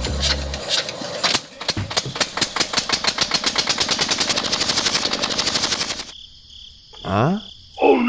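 Miniature model engine started by a flick of its flywheel: a rapid clicking that speeds up into a fast, even rattle as it runs the belt-driven toy machine, then stops suddenly about six seconds in. Two short squeaky cartoon-like sounds with sliding pitch follow near the end.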